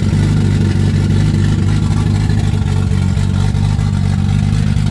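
A motor vehicle running steadily, with a constant low engine drone and road noise and no clear change in pitch.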